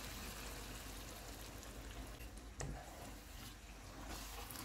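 Whisked eggs poured into a hot kadai of onion-tomato masala, frying with a low, steady sizzle that fades slowly. A single sharp knock about halfway through.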